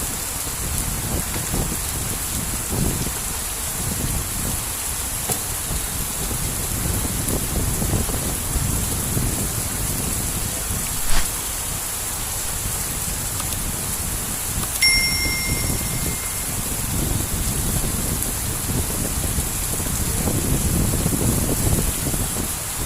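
Heavy rain falling steadily, with wind rumbling on the microphone in low swells. A single sharp click about eleven seconds in, and a short high beep about fifteen seconds in.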